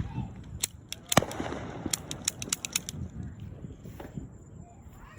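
Fireworks and firecrackers popping. There are a few separate bangs in the first second or so, the loudest followed by a crackling hiss, then a rapid run of pops about two seconds in and one more bang near four seconds.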